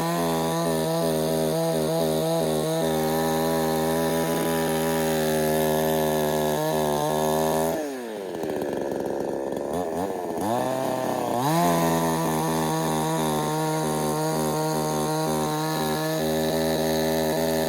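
Chainsaw running at high speed while bucking firewood logs into rounds, its pitch wavering under the load of the cut. About eight seconds in it drops to a lower speed, then revs back up about three seconds later and carries on cutting.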